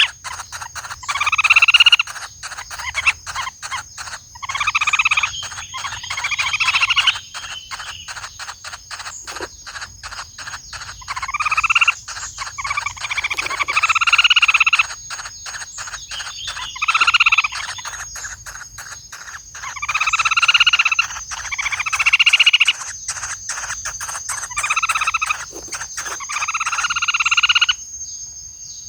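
Woodpecker nestlings in the nest hole giving harsh, buzzy begging calls, each about a second long, repeated over and over with short gaps.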